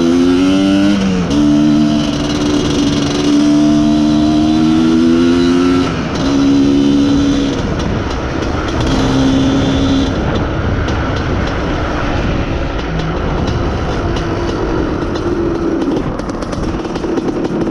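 IZh Planeta Sport motorcycle's two-stroke single-cylinder engine running under way, with a gear change about a second in. It then pulls steadily, the throttle eases off several times, and it settles to a lower, quieter note near the end. Wind rushes over the microphone throughout.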